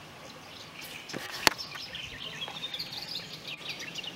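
Birds chirping and twittering over a faint hiss, with one sharp click about one and a half seconds in.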